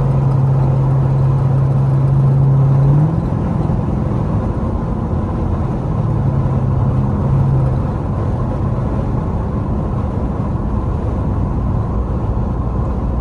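Straight-piped Dodge Durango V8 exhaust droning at highway speed. The drone briefly steps up in pitch and then eases off about three seconds in, swells again in the middle, and settles lower and a little quieter for the rest.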